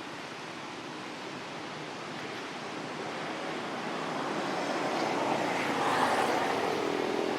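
Steady rushing outdoor noise that grows gradually louder over the last few seconds, as a motor vehicle approaches.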